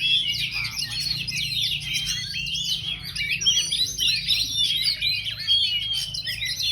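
Oriental magpie-robin (kacer) singing a fast, unbroken stream of varied chirps and trills, over a steady low hum.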